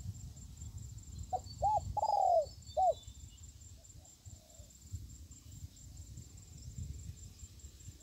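A bird calls a short phrase of four arched notes about a second in, the third note longer than the others, over a low rumble, with faint high chirps in the background.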